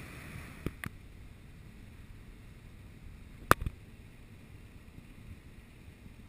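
Steady low rumbling noise aboard a river boat, broken by two light knocks about a second in and a louder, doubled sharp knock in the middle.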